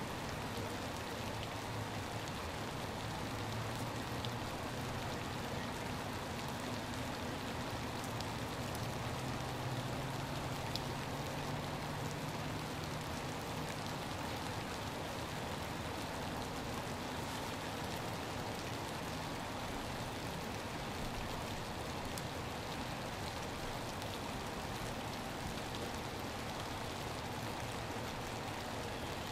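Steady freezing rain falling on shallow puddles and soggy ground.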